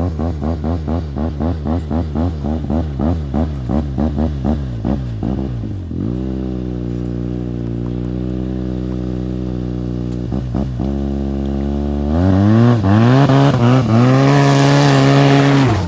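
Arctic Cat F1100 snowmobile's turbocharged four-stroke engine, breathing through a lightweight aftermarket muffler built to be louder and deeper than stock. It is blipped rapidly, about two to three revs a second, then settles to a steady speed with one more quick blip. About twelve seconds in it revs up and holds a louder, higher speed before cutting off.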